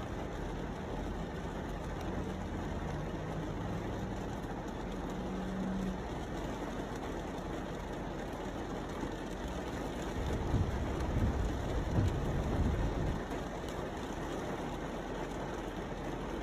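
Steady rain hiss. A faint low hum runs through the first few seconds, and a louder low rumble swells about ten seconds in and fades after about three seconds.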